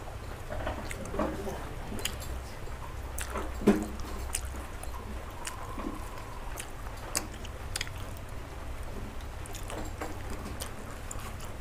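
Close-up eating sounds of someone chewing paratha with potato, pumpkin and soybean curry: soft chewing with small scattered mouth clicks and smacks.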